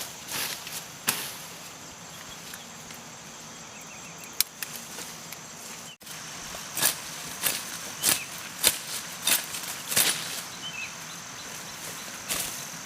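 A hand hoe chopping into soil while weeding cassava: a run of sharp, evenly spaced strikes, about two every second, in the second half. A steady high insect drone runs underneath.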